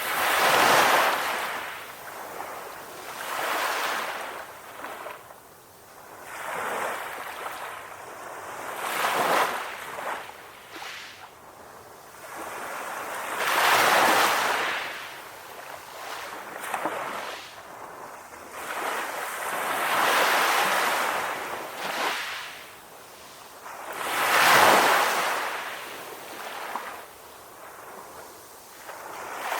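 Ocean waves breaking and washing onto a shore, each wave a rush of surf that swells and fades every few seconds.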